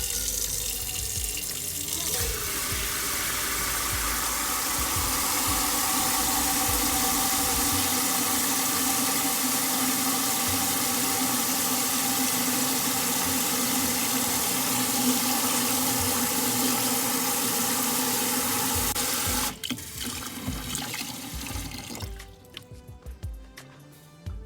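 Kitchen tap running into a sink, a steady rush of water that stops suddenly about twenty seconds in, followed by a few light knocks.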